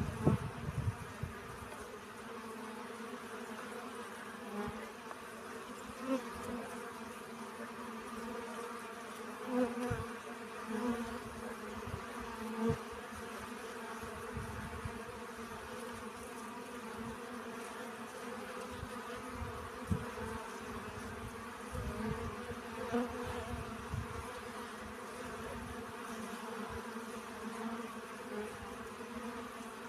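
Bees buzzing steadily while foraging for pollen, a constant hum that swells for a moment now and then as a bee passes close.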